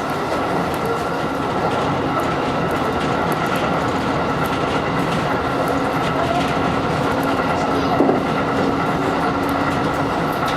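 JR electric train running along the track, heard from inside the car: a steady rolling rumble with a steady high whine and light clicking of the wheels over rail joints, and one short knock about eight seconds in.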